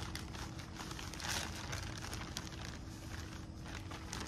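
Rustling and crinkling of plastic plant pots and potting soil being handled during transplanting, in irregular small crackles, over a faint steady hum.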